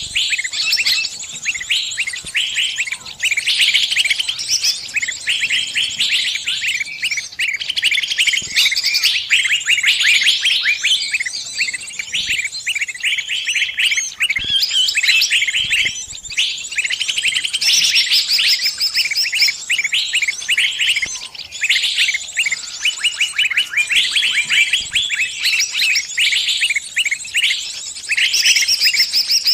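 A trapped small bird's distress calls: rapid, high-pitched chirps packed close together, with only brief pauses.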